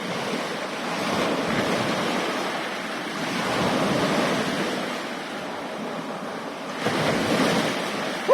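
Sea waves washing in and breaking, swelling and falling back several times, with wind buffeting the microphone.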